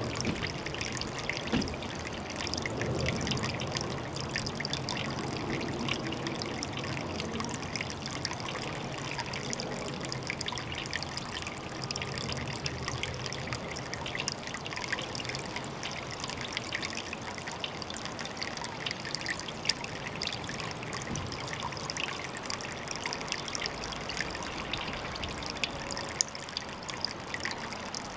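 Water trickling steadily, a continuous splashing dribble with many tiny drips and plinks.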